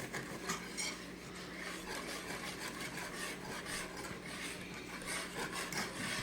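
A utensil stirring and scraping against the pan in a thickening cream sauce, in a run of irregular strokes.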